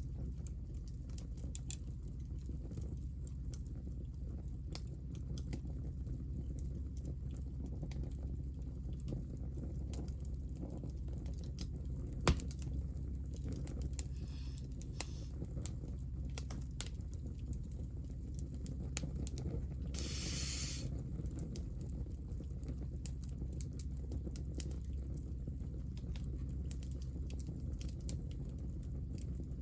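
Hinoki cypress offcuts burning in a small wood fire, crackling with many small ticks over a steady low rumble. One sharp pop stands out about twelve seconds in, and a short hiss about twenty seconds in.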